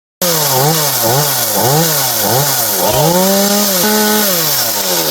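Chainsaw engine revved up and down over and over, its pitch rising and falling about every two-thirds of a second, then run up and held at high speed. It starts suddenly.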